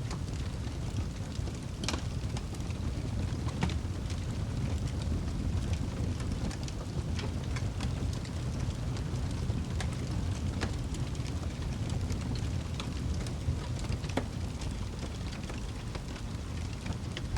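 Fire burning in a fireplace: a steady low rumble of flame with scattered sharp crackles and pops, a few every couple of seconds.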